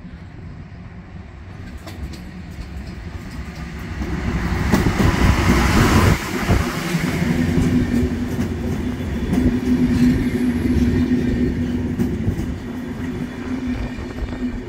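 PKP Intercity express train passing close by a station platform. Its noise builds to a loud pass of the locomotive about four to six seconds in. The coaches then roll by with a steady low hum and the clicking of wheels over rail joints.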